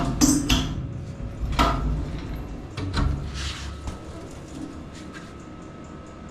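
A few sharp knocks and clunks of handling in the first three seconds, then a short hiss about three and a half seconds in, followed by a faint steady hum.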